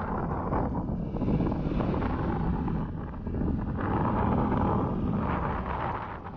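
Wind buffeting the microphone of a moving motorcycle, with the engine and road noise underneath as a steady rush.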